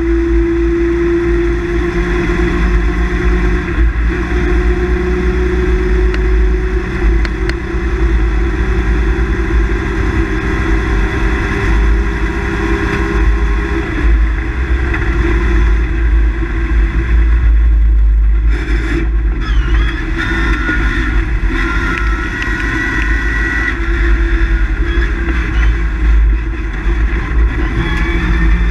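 Rally car engine running hard under load at stage speed, heard from inside the cockpit over a deep rumble. The engine note breaks briefly about 18 seconds in, then picks up again.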